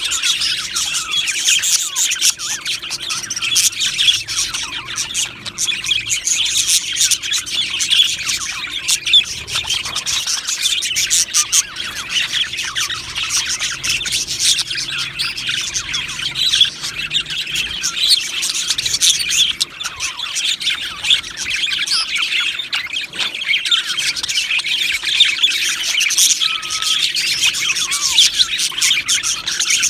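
A colony of budgerigars chattering and warbling together, a dense unbroken mass of overlapping high chirps and squawks.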